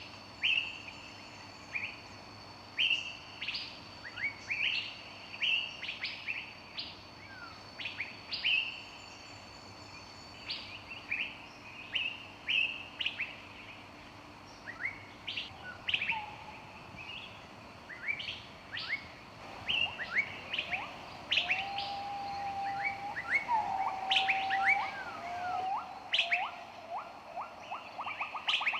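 Several songbirds chirping and calling, with short, sharp chirps repeated throughout. Lower whistled notes join in the second half, and a fast trill starts near the end.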